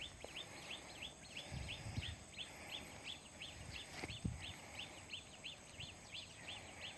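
A small bird's high chirp repeating steadily at about three short rising-and-falling notes a second, with a few faint low thumps.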